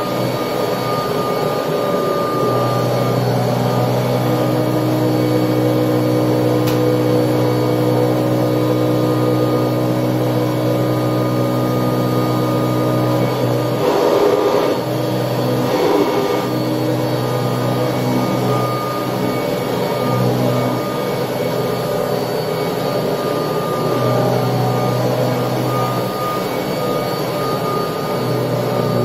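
1979 Kirby Tradition upright vacuum cleaner running steadily with a hum and a high whine. Its tone shifts a little now and then, with two louder surges about halfway through.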